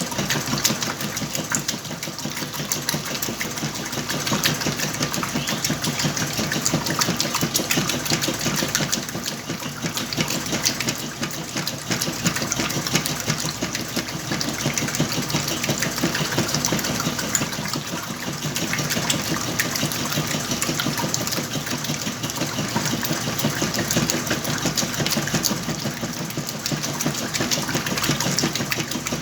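Whirlpool washing machine running with a load of blankets: a steady motor and drum noise that keeps on without a break.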